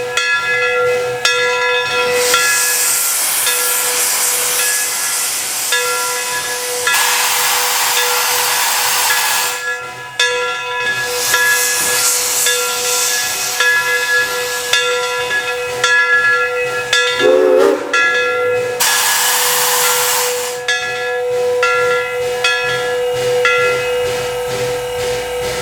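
CNJ 113's steam locomotive getting under way, venting steam in long loud hissing bursts over a steady tone that runs throughout.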